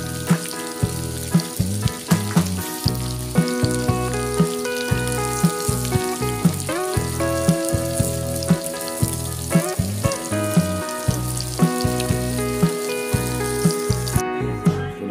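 Chicken pieces sizzling as they fry in a wok, under background music with a steady beat. The sizzling cuts out shortly before the end.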